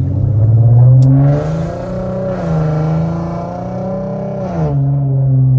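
Infiniti Q50's 3.7-litre V6 under acceleration through a loud aftermarket exhaust with test pipes. The engine note rises about a second in, holds high with a brief dip, then drops back as the throttle comes off near the end.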